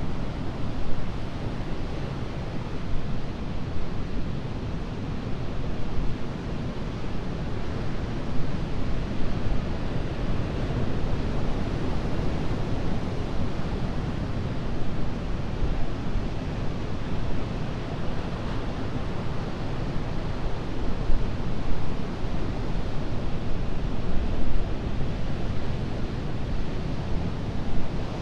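Atlantic surf breaking and washing onto a sandy beach: a continuous rush of noise, deepest and strongest at low pitch, swelling and easing a little as waves come in.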